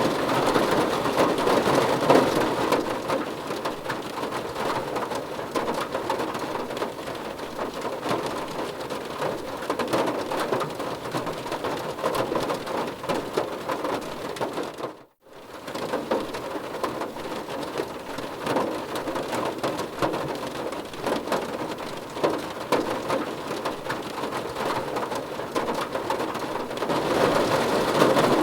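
Rain falling on a car's roof and windows, heard from inside the car: a steady patter of many drops. About halfway through it dips to a brief silence and comes straight back.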